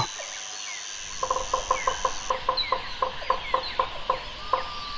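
Woodpecker: a run of short, sharp, evenly spaced pulses at about five a second, starting about a second in, over faint bird chirps.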